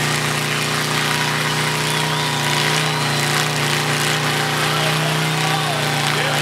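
Motorcycle engine running steadily at a constant pitch, with a hiss over it.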